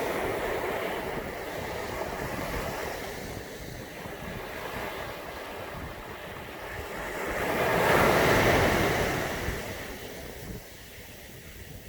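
Ocean waves breaking and washing up a beach, one wave swelling to its loudest about eight seconds in and then fading. Wind rumbles on the microphone underneath.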